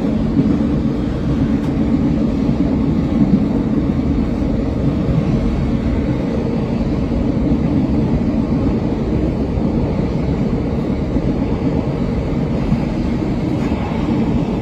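Zugspitze cog-railway train running along, heard from inside the carriage: a steady low rumble.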